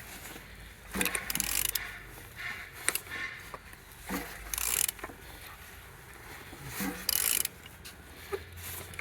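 Used car engine being turned over by hand with a ratchet wrench on the crankshaft: irregular bursts of ratcheting clicks, a few strokes at a time. The engine turns freely and has good compression on every cylinder.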